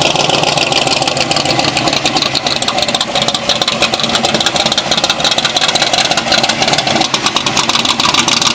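A car engine idling steadily and loudly.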